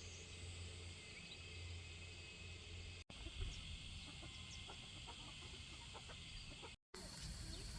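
Faint rural outdoor ambience: a steady high insect drone with scattered short clucks, likely from chickens. A low hum runs for the first three seconds. The sound cuts out completely for a moment twice.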